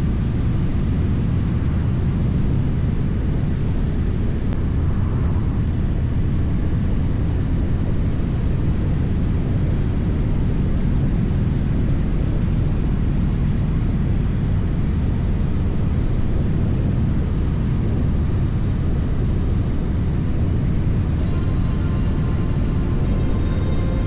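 Harley-Davidson Street Glide being ridden at a steady speed: a constant low rumble of wind rush over the microphone mixed with the V-twin engine.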